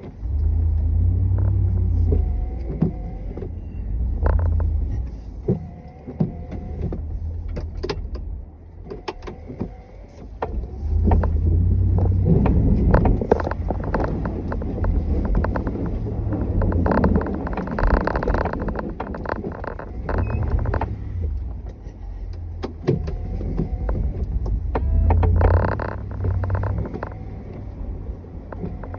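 Snowplow vehicle working through deep snow: a low engine rumble that swells and eases in repeated surges, with scattered knocks and clunks.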